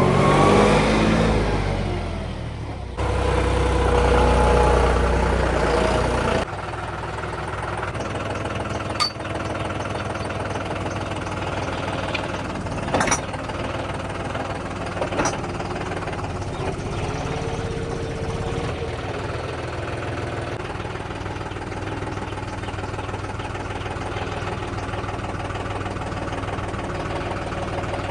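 Tractor diesel engine working hard under load: its pitch falls, then it runs with a heavy low rumble that stops abruptly about six seconds in. After that it runs steadily at a lower level, with a few sharp knocks.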